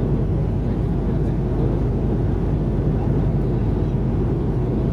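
Steady cabin noise inside an Airbus A330-300 airliner: an even, low drone of engines and airflow, with no changes.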